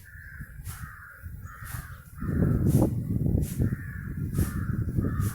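A crow cawing over and over, about two caws a second, with a louder low rumble setting in about two seconds in.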